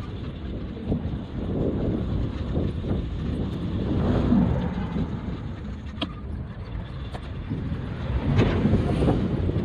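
Steady low rumble of wind and road noise on the microphone during a bicycle ride, with a few brief clicks.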